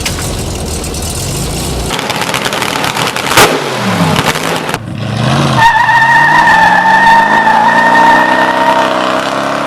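Movie-soundtrack car sounds: an engine running and revving, with a sharp bang about three and a half seconds in. From about halfway there is a steady high tone over engine pitches that rise.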